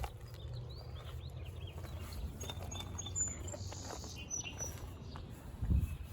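Small birds chirping in short high calls over a steady low rumble, with a dull thump near the end.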